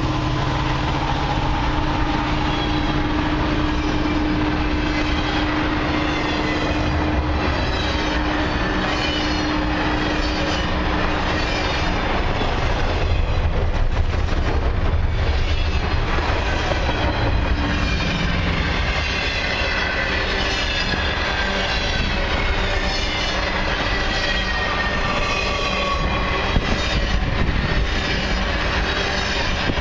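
Cars of a long, loaded freight train rolling past at steady speed: a continuous rumble with wheel clatter and high, shifting squeals from the wheels on the rails.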